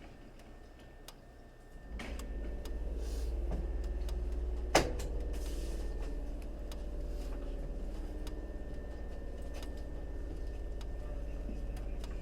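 Inside a standing Hankyu 3300 series car, a low steady drone of the car's air compressor cuts in about two seconds in and keeps running. A single sharp click a few seconds later is the loudest sound.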